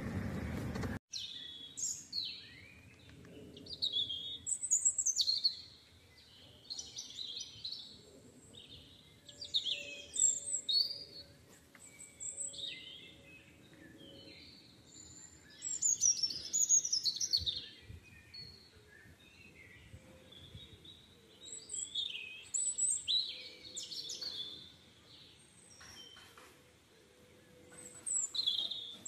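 Car running noise cuts off abruptly about a second in. Then birds sing and chirp in quick, high, repeated phrases with short gaps between them.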